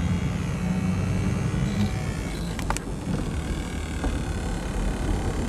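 Tour vehicle driving, heard from inside: a steady low engine and road rumble, with a couple of faint clicks about midway.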